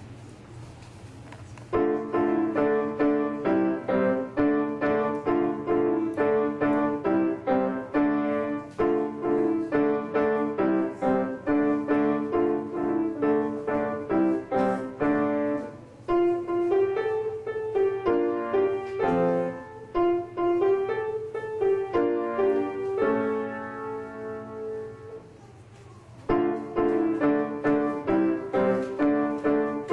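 Piano-toned keyboard playing a simple student recital piece, starting about two seconds in with a steady pattern of repeated chords. It turns softer for a while past the middle, with a few quieter held chords, then comes back at full strength near the end.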